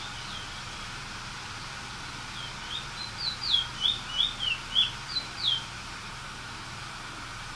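Small songbird chirping: a quick run of about ten short, high, downslurred chirps, starting about two and a half seconds in, over a steady faint background hiss.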